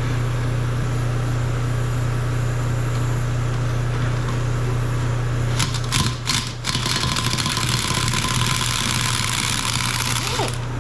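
Shop exhaust fan running with a steady low hum. About six seconds in there are a few sharp clicks, then a gas torch hisses steadily for about four seconds while it heats the cast-iron cylinder head to loosen a rusted bolt.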